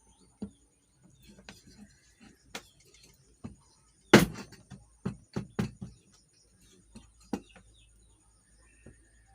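Clicks and knocks of metal ceiling-fan parts being handled as the fan is taken apart: light scattered clicks, one loud knock about four seconds in, then a quick run of knocks.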